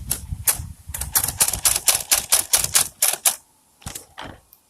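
Plastic toys being handled, giving a quick run of sharp clicks and clacks, about five a second, then two more clicks near the end.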